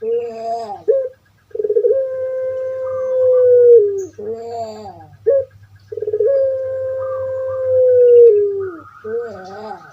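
Puter pelung (long-voiced Barbary dove) cooing: short wavering notes alternate with long held coos of about two and a half seconds that slide down at the end, twice in a row.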